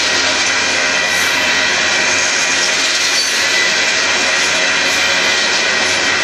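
Freight cars of a Union Pacific gravel train rolling past, a loud steady rush of steel wheels on rail with a few faint steady ringing tones.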